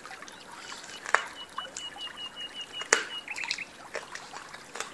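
Wet mouth sounds of chewing and sucking on a steamed chicken foot, with small crackles and two sharp clicks, about a second in and about three seconds in.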